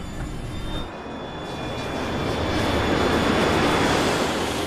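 Dramatised sound of a jet airliner in an uncontrolled roll: engine and rushing-air noise swelling steadily louder over a few seconds, the sound of the plane going down.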